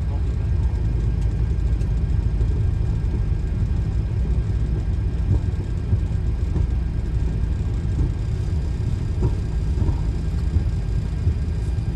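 Steady low rumble of a Boeing 737 flight deck as the airliner rolls out at low speed after landing, engines back at idle.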